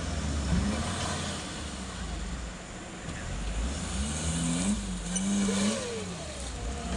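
Off-road vehicle engine running with a steady low rumble, with voices calling in the second half.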